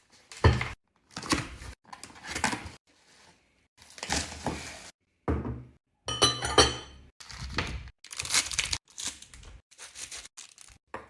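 Plastic packaging crinkling and tearing as a bag is unwrapped, in a series of short rustling bursts with sudden silent gaps between them.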